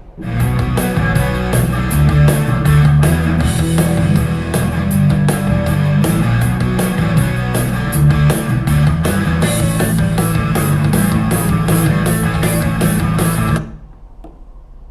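Music played back through a portable Bluetooth speaker for a sound test: a beat with heavy bass and a steady high tick, which drops off sharply about fourteen seconds in.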